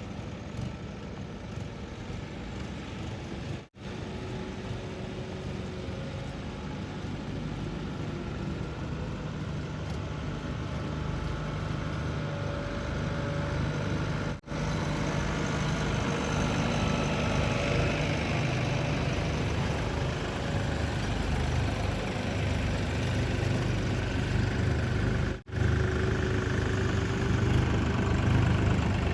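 Heavy diesel machinery engines running steadily and slowly growing louder, broken by three momentary drop-outs in the sound.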